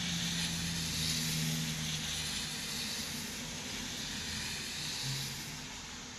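Steady hiss of falling rain, with a low steady hum under it for the first two seconds and another brief hum about five seconds in.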